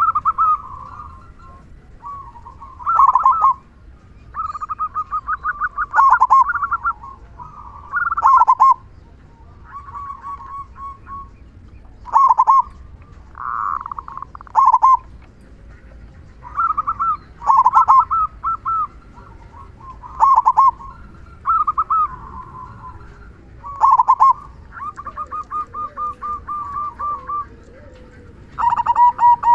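Zebra dove (perkutut) cooing with its deep 'kung' song. It gives repeated phrases of quick stuttering notes and longer coos at about one pitch, a new phrase every one to three seconds.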